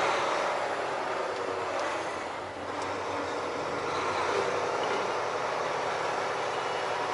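Semi tractor's diesel engine running steadily as the tractor-trailer moves at low speed while lining up to back into a dock.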